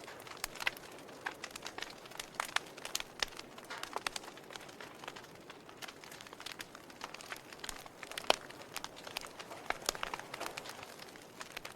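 Logs burning in a fireplace, crackling: irregular sharp pops and snaps over a soft steady hiss, with one louder pop about eight seconds in.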